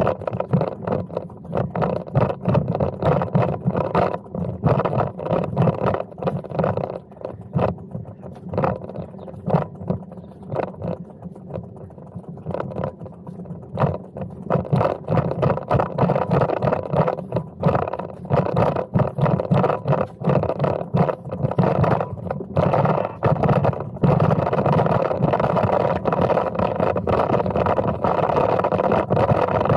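Continuous uneven rumble and buffeting from riding a Brompton folding bicycle, with wind on the microphone. It gets a little louder and steadier near the end.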